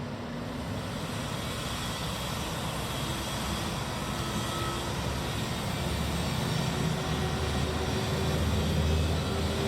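Steady mechanical running noise with a low rumble, growing slowly louder.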